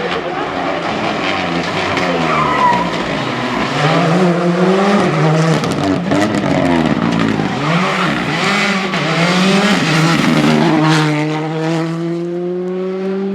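Rally car engine revving hard through repeated gear changes, the revs swinging up and down quickly with sharp crackles as it brakes and turns, then rising steadily as it accelerates away near the end. Tyres skid on the stage surface.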